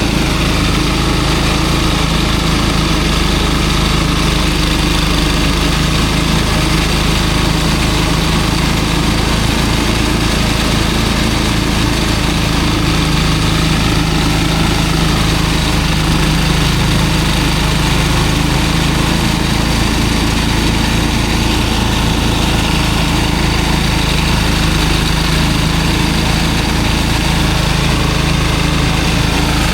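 A small engine running steadily at a constant speed, with an even hum and a fast regular pulse.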